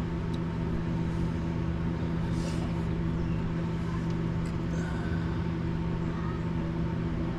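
Steady machine hum with a constant pitch that never changes, like a motor running continuously.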